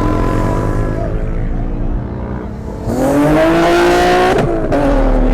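Car engine revving: it runs at a steady, slightly falling pitch, eases off, then climbs sharply about three seconds in and drops back abruptly a second and a half later.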